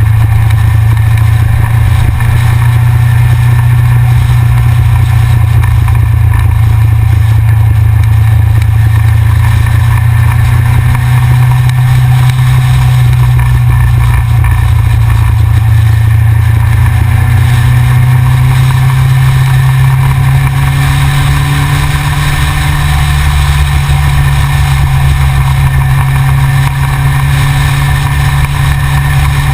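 Yamaha XJR motorcycle's air-cooled inline-four engine running steadily under way, a low drone that climbs gradually in pitch through the second half.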